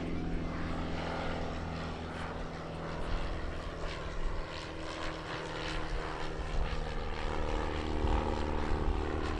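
Piston-engined propeller aircraft flying, its engine drone steady throughout.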